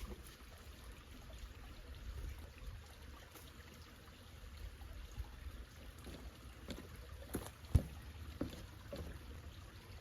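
Reclaimed wooden boards being handled and shifted in a pile: scattered light knocks and clicks, with one sharp knock about eight seconds in, over a steady low rumble.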